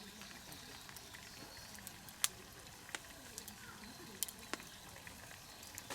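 Campfire crackling softly: a faint steady hiss with scattered sharp pops from the burning wood, one louder pop a little over two seconds in.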